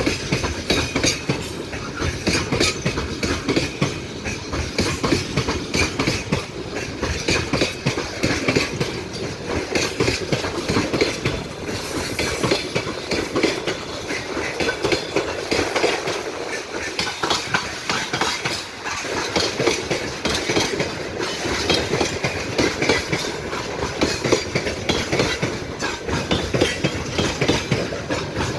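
Railway cars rolling past close by, their wheels clattering continuously over the rail joints.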